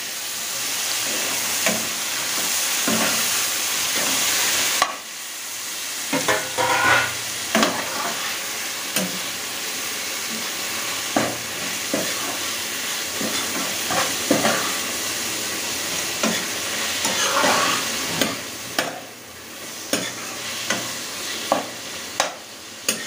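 Onion and tomato tadka for dal fry sizzling in hot oil in a nonstick pan while a steel spoon stirs it, with many short knocks and scrapes of the spoon on the pan. The sizzle is loudest at first and drops sharply about five seconds in.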